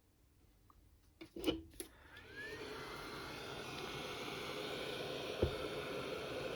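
Heat gun switched on with a couple of clicks, its fan spinning up with a brief rising whine and then blowing steadily, as used to shrink heat-shrink tubing. A single sharp knock about five seconds in.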